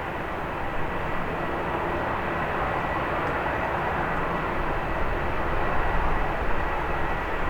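Airbus A321 jet airliner on approach, its engines giving a steady rushing rumble with a faint high whine, swelling slightly a few seconds in.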